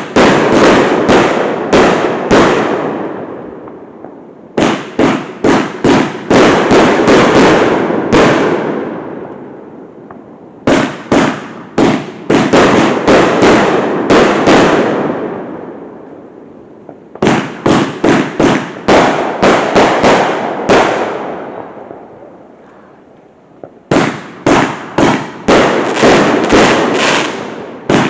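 Fireworks going off in volleys of rapid sharp bangs. Each volley lasts three to four seconds and then fades away, and a new volley starts about every six seconds, five in all.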